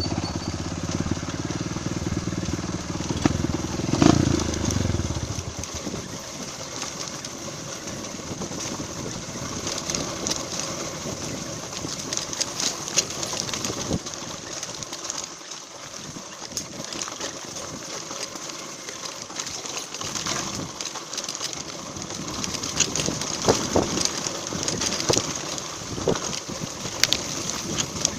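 Trail motorcycle's single-cylinder four-stroke engine running steadily, with a louder moment about four seconds in, then stopping about five and a half seconds in. After that come scattered clicks and rustling over a light hiss.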